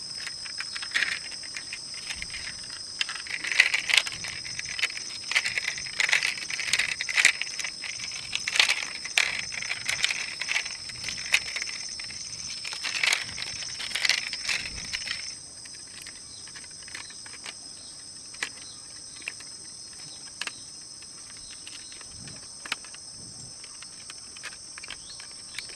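Steady high-pitched insect chorus throughout. Over it, a busy run of clicks and knocks lasts about the first fifteen seconds, then thins to occasional clicks.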